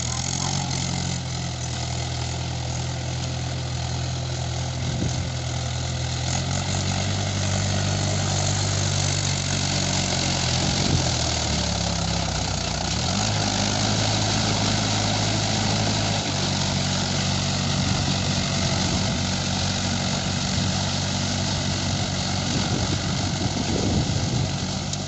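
Tractor engine running steadily, its pitch shifting several times as the engine speed changes, most noticeably about halfway through.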